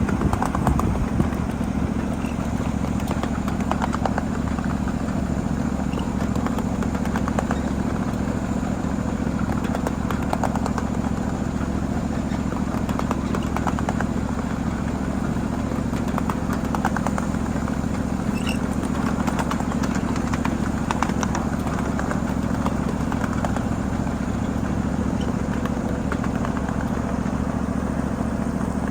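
A 7.5-inch gauge ride-on miniature freight train running steadily along its track, making a constant mechanical drone with occasional light clicks.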